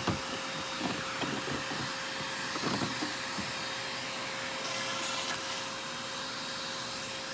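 Aerus Lux Guardian upright vacuum's suction motor running steadily in hose mode, a steady rush of air with a constant whine. A few light knocks come from the extension wands being handled.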